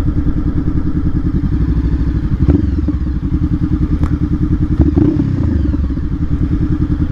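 Honda CBR500R's parallel-twin engine idling with an even low pulse, with a few short knocks about two and a half, four and five seconds in.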